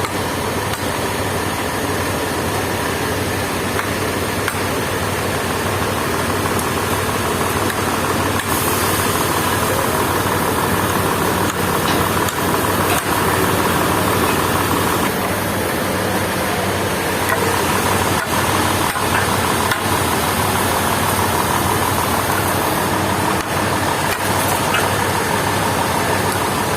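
Engine-driven sawmill machinery running steadily, with scattered knocks; the sound shifts a little about eight seconds in and again about fifteen seconds in.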